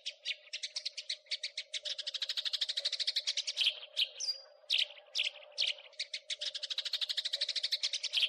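House sparrow chattering: two fast runs of rapid chirps, about a dozen a second, with a few separate chirps in between.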